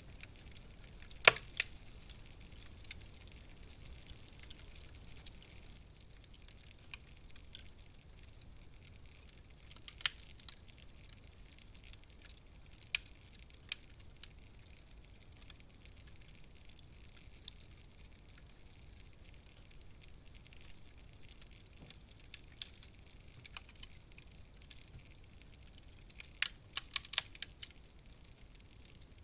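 Wood fire crackling in a fireplace: scattered sharp pops and snaps over a faint low hiss, with a quick run of pops near the end.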